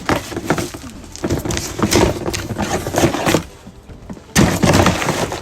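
Handling noises: a series of knocks and clatter, then a sudden loud burst of noise about four and a half seconds in.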